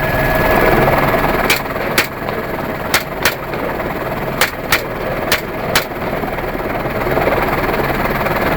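Eight semi-automatic .223 rifle shots in four quick double-taps, starting about a second and a half in, over the steady running of a helicopter.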